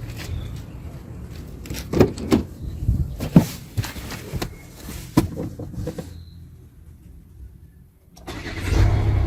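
A Hyundai car's engine starts near the end and runs with a steady low rumble, after several sharp clicks and knocks and a short quieter spell.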